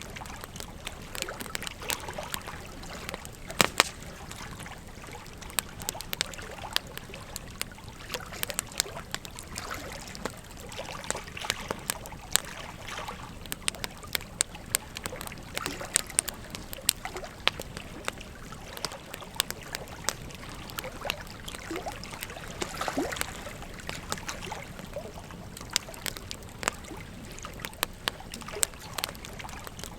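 Wood fire crackling with frequent irregular sharp pops over the steady rush of flowing river water.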